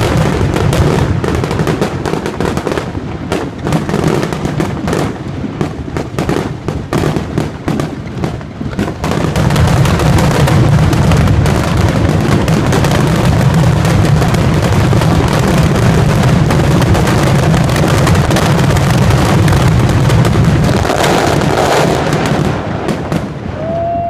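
Fireworks barrage: many overlapping booms and crackles, thinning somewhat from about 3 to 9 seconds in, then a dense, continuous volley that dies away near the end. A steady tone starts just before the end.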